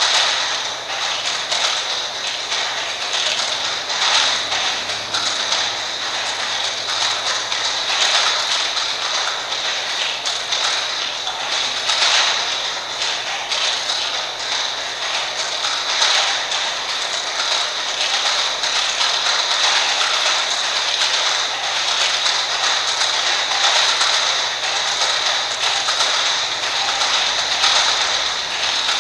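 Many amplified, modified clock mechanisms ticking together in a dense, continuous clatter of clicks, swelling roughly every four seconds as the ticking is sequenced.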